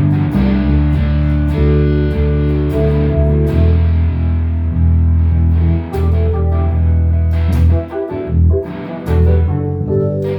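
Instrumental jam with guitar over heavy sustained bass notes, punctuated by sharp percussive hits. It briefly thins out about eight seconds in.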